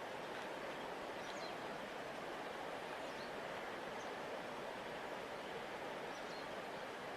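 Steady, even rushing of a large river's flowing water, with a few faint, brief high chirps scattered over it.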